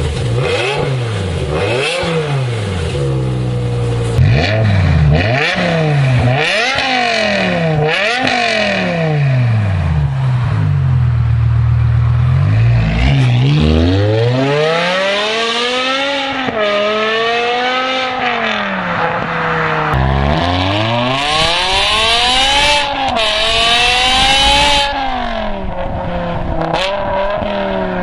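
BMW E60 M5's 5.0-litre V10 breathing through an iPE aftermarket exhaust, revved over and over. It gives quick short blips in the first several seconds, then longer climbs and falls in pitch later on.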